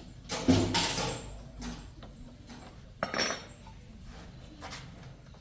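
Metal clattering and clinking: a loud burst about half a second in, a shorter one about three seconds in, and a few lighter clicks between.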